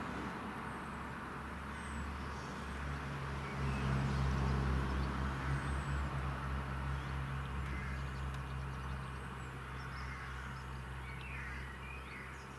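A low, steady hum that swells about three seconds in and then slowly fades.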